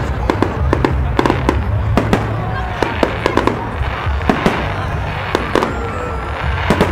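Aerial fireworks shells bursting in quick succession: many sharp bangs, several a second, with crackling between them over a steady low rumble.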